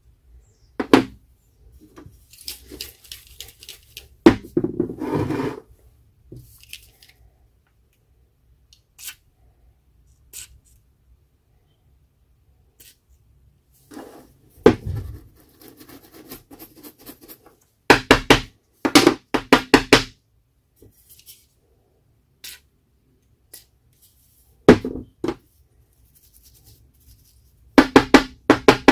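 Intermittent knocks, taps and clatter of hand tools and parts being worked on the bench, with short runs of quick repeated tapping about two-thirds of the way through and again near the end.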